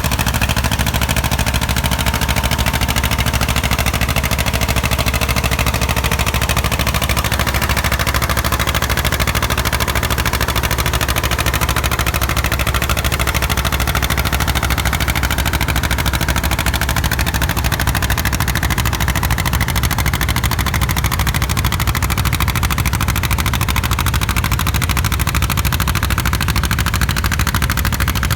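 John Deere A's two-cylinder engine working hard in a tractor pull, its exhaust popping in a rapid, even string without a break.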